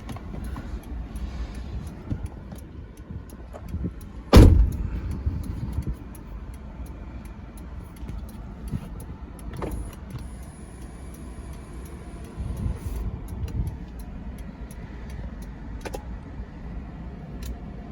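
A Honda S2000 body panel slammed shut once, a loud thud about four seconds in, over a steady low rumble with small clicks and knocks.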